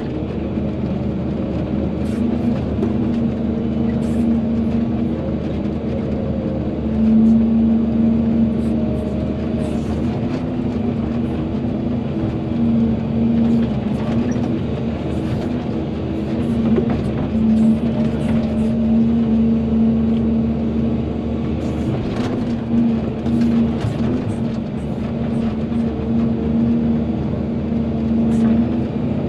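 Volvo EC220DL excavator's diesel engine running steadily under working load, its note swelling and easing a little as it digs, with scattered clicks and clanks from the machine.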